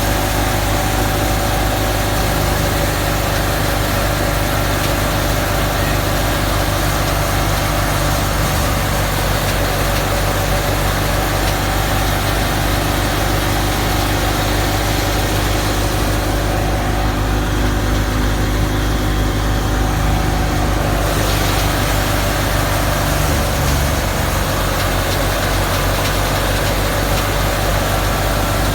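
Fiat 480 tractor's diesel engine running steadily under load as it drives a threshing machine, with the thresher's continuous whirr and rush over the engine note. The high hiss eases for a few seconds past the middle, then comes back.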